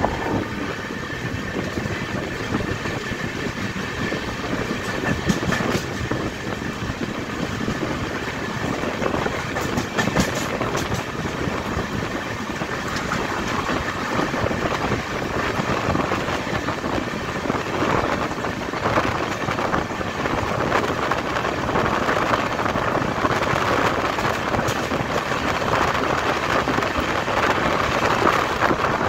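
Express passenger train running on the rails, a steady rumble and rush of the coaches with a few faint clicks around ten seconds in. It grows slightly louder in the last third.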